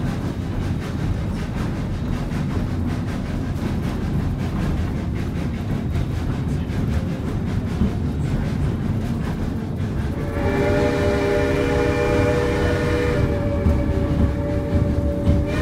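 Narrow-gauge train running with a steady low rumble. About ten seconds in, the steam whistle of Baldwin 2-8-0 #111 sounds a chord of several notes for about three seconds, one note carrying on a little longer.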